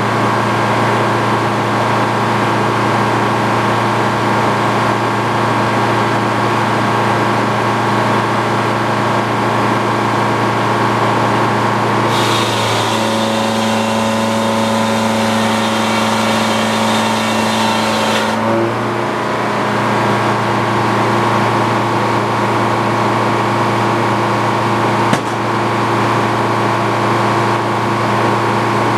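Power unit of an antique Frick circular sawmill running steadily under a constant drone. From about twelve seconds in, for roughly six seconds, a brighter hiss and an extra steady tone join it, as the saw blade cuts through the log.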